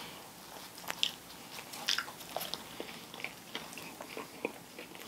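A person chewing a mouthful of Subway meatball sub close to the microphone: soft, irregular mouth clicks and smacks.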